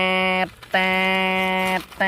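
A horn sounding in long, steady blasts of one flat tone, broken by short gaps: one blast ends early on and a second runs for about a second.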